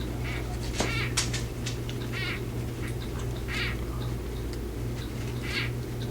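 Female crested gecko giving short calls at irregular intervals, about seven over a few seconds, above a steady low hum. It is the call a female makes to warn off a male: she is gravid and not receptive, and she takes the hand touching her side for a male.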